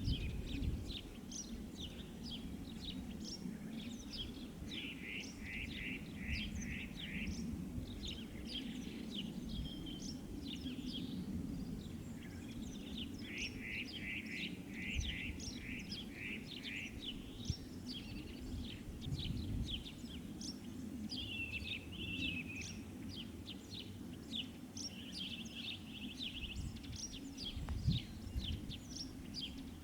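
Several small birds singing and chirping, with a run of quick repeated notes twice, over a steady low background rumble.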